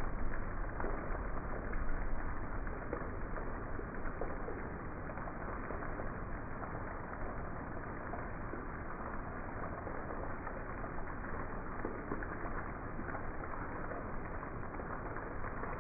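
Heavy rain falling steadily: a dense, even hiss, easing slightly after the first few seconds.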